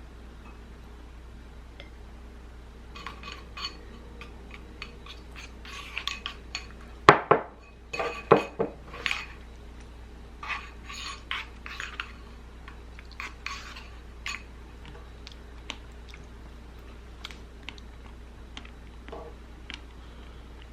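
Dishes and cutlery clinking and knocking in a kitchen: scattered light clinks, some with a short ring, and a cluster of louder knocks about seven seconds in.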